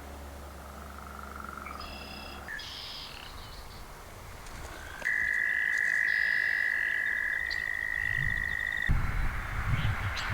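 Short high bird chirps, then about five seconds in a frog's long steady trill holding one pitch for about four seconds. Near the end, low rumbling wind on the microphone comes in.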